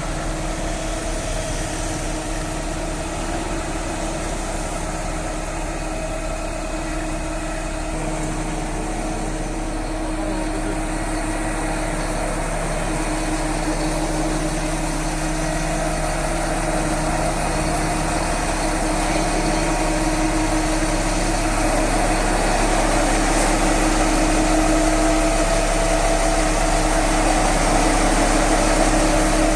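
Mobile crane's diesel engine running steadily with a held hum over a low rumble, growing somewhat louder through the second half.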